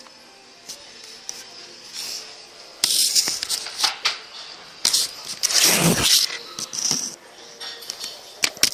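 Rattling and clattering of small hard objects in irregular bursts, loudest about three seconds in and again around five to six seconds in, with sharp clicks near the end.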